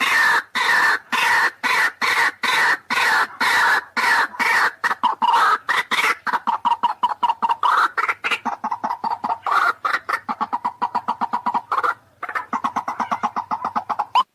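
White-breasted waterhen calling: long runs of harsh, rapidly repeated notes that speed up past the middle, with a brief break near the end before the calling resumes. This is a recorded lure call.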